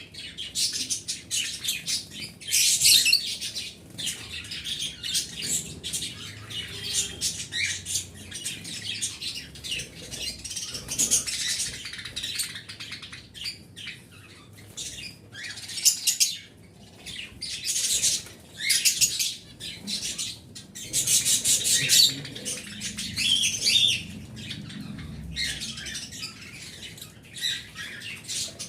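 Small pet birds chirping and chattering in quick, high-pitched flurries, several loud bursts among a steady busy twitter.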